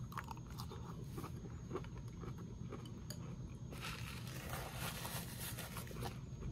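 Close-up chewing of a mouthful of crunchy honey-oat cereal in milk, the flakes and clusters still crisp and crackling between the teeth. A louder rustle comes about four seconds in.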